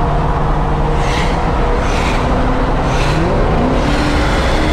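Straight-piped Lexus SC430 4.3-litre V8 exhaust with an X-pipe, running at a steady pitch, then revving up under acceleration about three seconds in.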